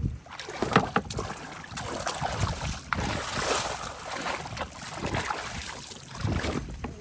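Water splashing and sloshing in irregular surges, with scattered small knocks.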